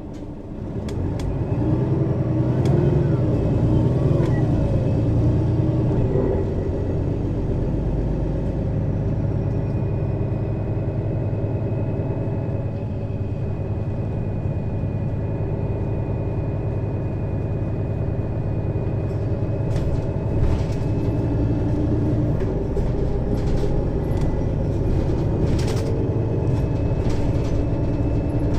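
Mercedes-Benz Citaro city bus with a ZF Ecomat 2 6HP-592 C automatic, heard on board as it pulls away. The engine note swells about a second in and rises and falls through the first gear changes. It then runs steadily at speed, with scattered knocks and rattles in the second half.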